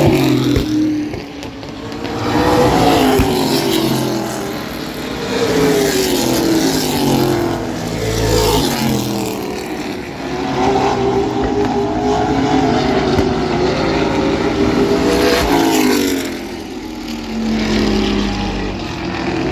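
Race trucks' engines running laps on a short oval. Their pitch rises as they accelerate and falls as they lift, over and over, with the sound swelling and fading as they come by.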